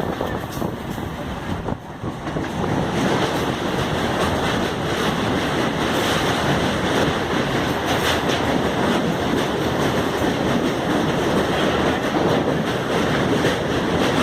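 Running noise of a moving local passenger train with air rushing past the microphone, a steady roar that grows louder about two seconds in and then holds.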